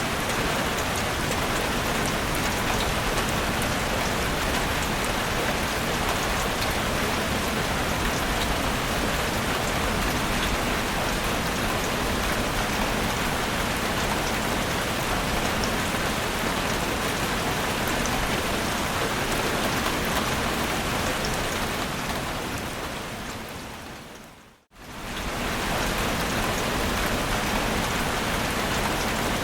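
Heavy rain falling steadily, an even hiss with scattered drop ticks. Near the end it fades down to a moment of silence and quickly fades back in.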